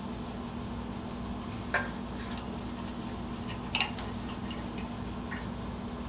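Small metal hand tools and wire terminals being handled: two sharp metallic clicks about two seconds apart and a few lighter ticks, over a steady low hum.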